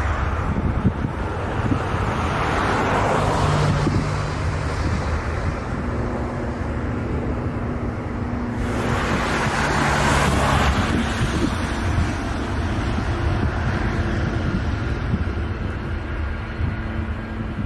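Jet airliner engines rumbling, with wind buffeting the microphone and faint steady engine tones, swelling louder twice.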